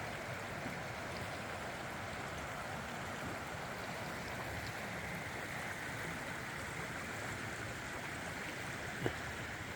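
Steady rush of a flowing stream, with one light tap near the end.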